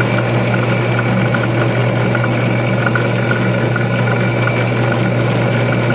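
An older bench drill press, driven by a rigged-up quarter-horsepower electric motor, running steadily at its slowest speed with a loud constant hum.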